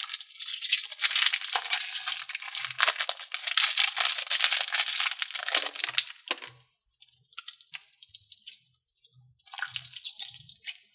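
Slime and putty being squished and worked by hand in a tub: a dense wet crackling and squelching for about six seconds, then two shorter bursts.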